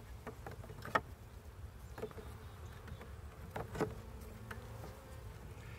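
Honeybees buzzing steadily around an open nuc hive, with a few sharp knocks as wooden frames are shifted with a frame spacer tool.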